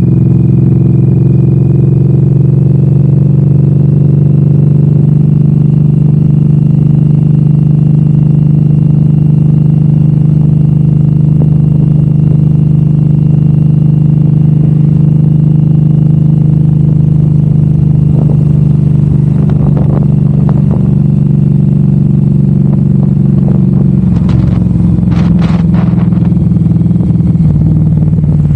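Suzuki M109R's V-twin engine running steadily while riding, heard close up from the handlebars. A few short clatters come in the second half.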